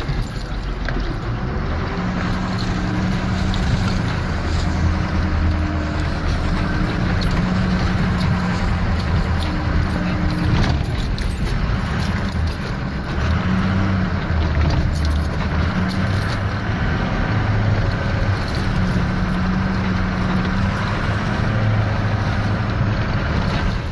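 Ford Power Stroke diesel pickup driving slowly across rough field ground, its engine note rising and falling as the throttle is worked, with short rattles and knocks throughout.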